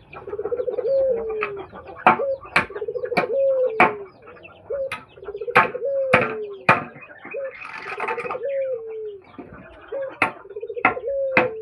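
Birds calling: a low, bubbling phrase with a falling end, repeated every second or two. Sharp clicks run between the phrases, and a brief burst of higher chatter comes about two-thirds of the way through.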